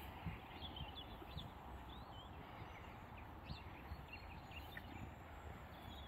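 Short, scattered bird calls over steady background noise.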